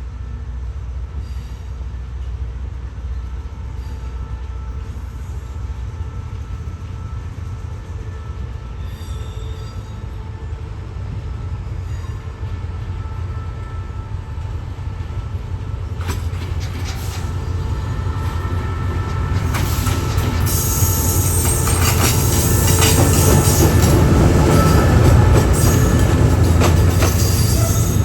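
Train moving through the station: a low engine rumble that grows steadily louder, wheels clicking over the rails from a little past halfway, and a high wheel squeal joining in over the last third.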